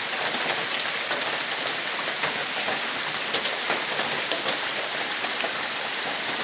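Heavy rain falling steadily, with many close drops ticking on a surface.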